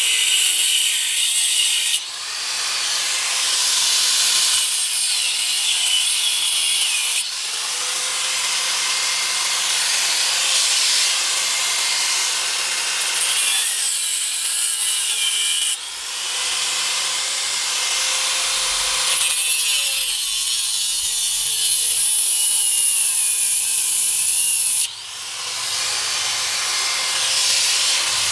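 Steady abrasive sanding of metal motorcycle parts, a continuous scratchy rasp, in several takes joined by abrupt cuts.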